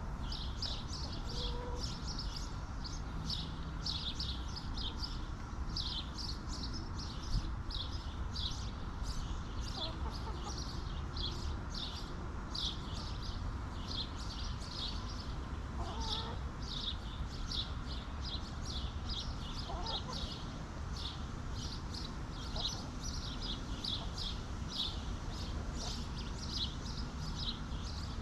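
Backyard hens giving a few soft, low clucks and murmurs. Behind them runs a dense, fast high-pitched chirping.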